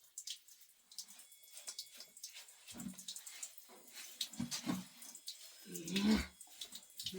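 Water splashing and dripping during a wash, in uneven small splashes. A few brief low voice-like sounds come about halfway through and near the end, the last one the loudest.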